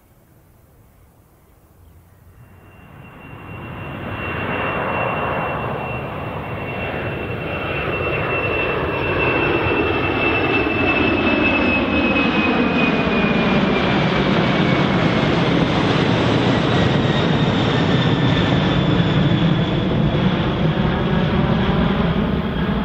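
Jet airliner engines approaching and passing close: quiet at first, then the engine noise builds from about two seconds in. A high fan whine slowly falls in pitch, and the sound settles into a loud, steady jet noise.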